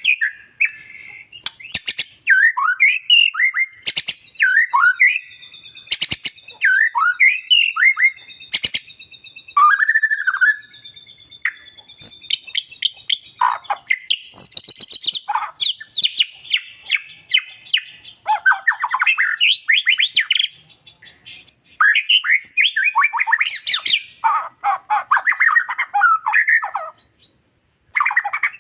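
Songbird song of the kind played as masteran to white-rumped shamas: a fast, varied run of whistles, chirps and trills. Sharp clicks come about every two seconds in the first nine seconds.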